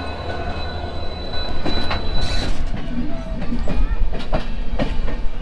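A diesel locomotive passing: a steady low engine rumble, then from about two seconds in a louder stretch with a run of sharp clacks as the wheels cross rail joints.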